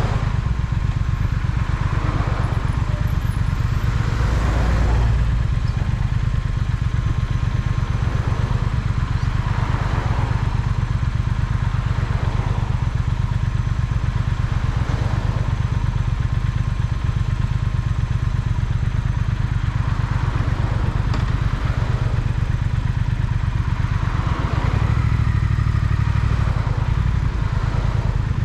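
Triumph Speed Twin's parallel-twin engine running steadily while the motorcycle is ridden, with road and wind noise over it. The engine note gets louder from about three-quarters of the way through, as if under more throttle.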